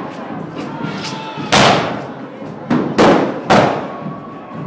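Firework bangers going off in quick succession: four sharp, loud bangs, each with a ringing echo tail, over crowd noise.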